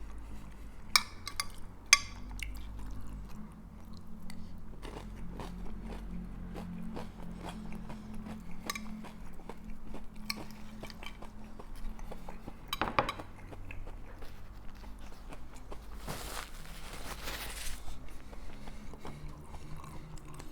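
Close-up chewing and crunching of Fritos corn chips with picadillo, with a few sharp clicks scattered through. Near the end comes a hissing noise lasting nearly two seconds, over a steady low hum.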